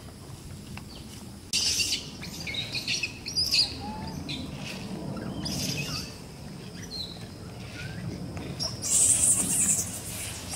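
Birds chirping in several short bursts, the loudest near the end, over a steady low rumble.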